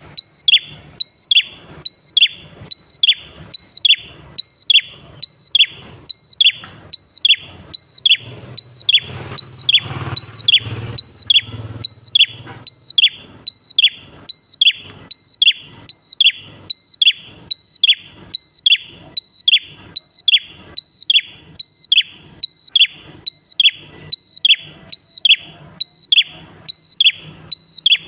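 Prinia (prenjak klawu) singing: one sharp note repeated very evenly, nearly twice a second, each note starting high and dropping quickly in pitch.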